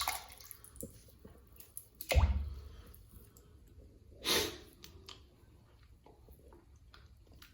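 Wet handling of a removed plastic bottle trap clogged with gooey sludge: a loud thump about two seconds in, then a short wet squelch a couple of seconds later.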